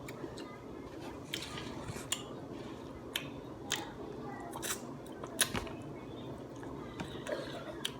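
Light, irregular clinks and clicks of tableware at a meal, about seven or eight sharp taps over a few seconds, over a faint steady hiss.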